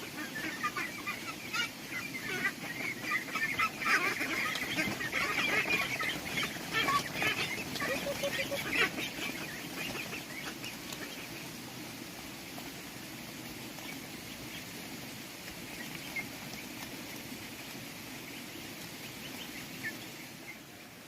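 A flock of domestic ducks calling, many quick quacks overlapping. The calls thin out about halfway through, leaving a quieter steady background.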